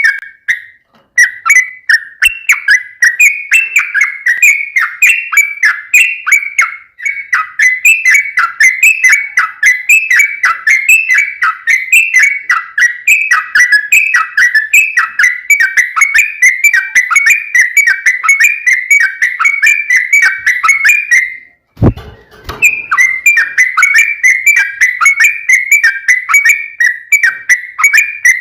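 Yellow-vented bulbul (trucukan) singing a long, fast chattering song of bubbly whistled notes, several a second, with hardly a pause. A little over three-quarters through, the song stops for a moment with a dull thump, then picks up again.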